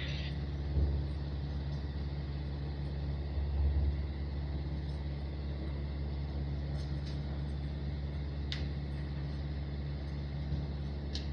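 Helicopter running steadily on the ground at idle just before engine shutdown, a constant low drone with a few faint clicks.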